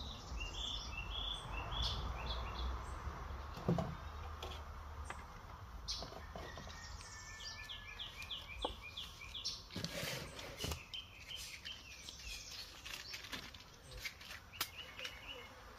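Wild birds singing in repeated runs of short, high chirping notes, with scattered sharp clicks and knocks close by and a low rumble underneath.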